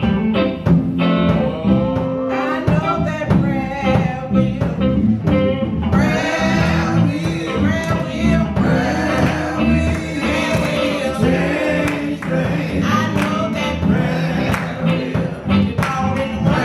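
A church choir singing a gospel song, backed by a band with guitar, bass guitar and drums. The sound grows fuller about six seconds in.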